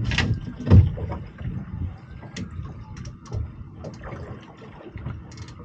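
Knocks and thumps of gear being handled on a small boat, two sharper ones in the first second, over a low steady rumble of wind and water against the hull.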